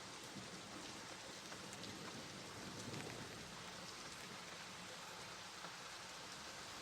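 Steady rain falling, an even hiss with fine scattered drop patter, swelling slightly about halfway through.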